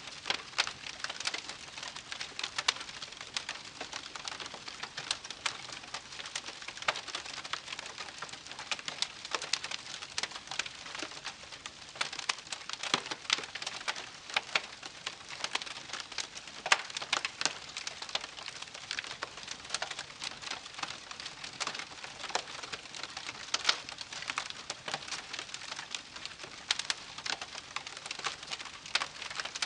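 Wood fire crackling steadily, with a dense, irregular run of sharp pops and snaps over a soft hiss.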